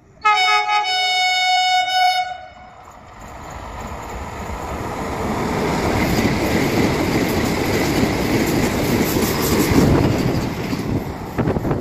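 Vande Bharat Express trainset sounding one long horn blast of about two seconds as it approaches. It then runs through the station at speed: the noise of wheels on rails and rushing air builds, holds for several seconds, and eases off near the end.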